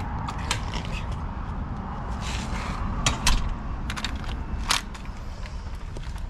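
Handling of metal tools and hardware: a scattering of sharp clicks and knocks with short scrapes, the loudest clicks about three seconds in, over a steady low rumble.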